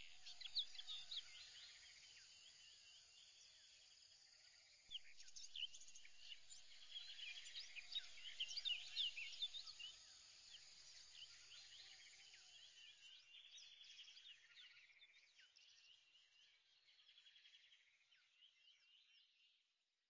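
Faint, dense chorus of bird chirps and twitters that fades out toward the end.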